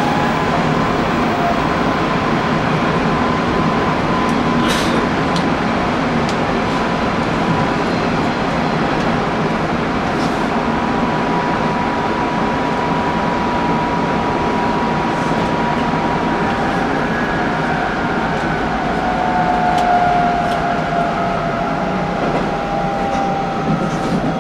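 Hanshin Railway electric commuter train running along the line: a steady rolling rumble with a faint, even whine for the first half, and a slightly falling whine a little before the end.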